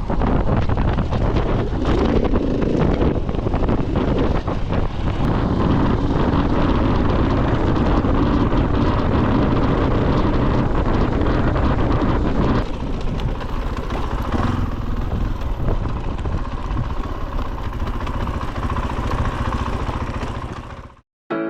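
KTM 500 EXC dual-sport motorcycle's single-cylinder four-stroke engine running while the bike is ridden. The sound eases somewhat about halfway through and cuts off abruptly near the end.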